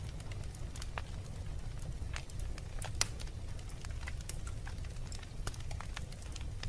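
Wood fire burning in a fireplace, crackling with irregular sharp pops over a low steady rumble; the loudest pop comes about three seconds in.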